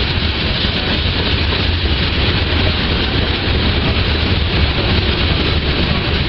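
Norfolk Southern freight train rolling past: a steady, loud rumble of wheels on rail, with no clear rhythm.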